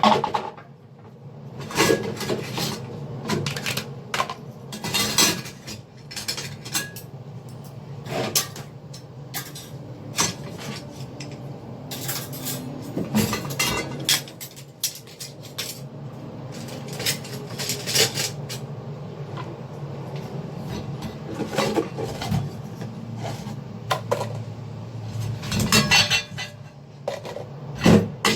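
Dishes and cutlery clinking and knocking as they are handled, in irregular clusters of clatter, over a steady low hum.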